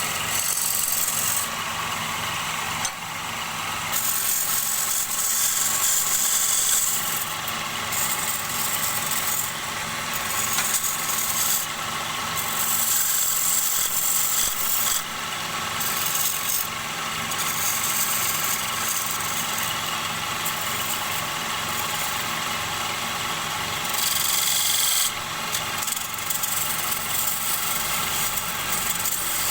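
Wood lathe motor running with a steady hum while a turning tool cuts a spinning wooden bowl blank. The high cutting hiss comes in stretches of a few seconds with short breaks, as the tool is pressed in and lifted off.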